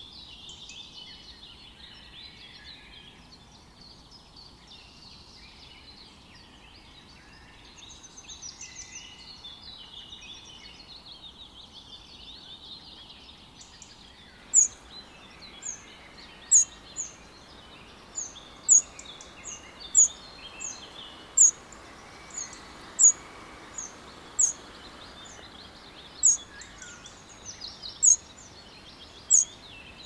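Small birds chirping in a busy, overlapping chorus. About halfway through, a single bird starts giving sharp, high chirps, loud and roughly once a second, over a steady background hiss.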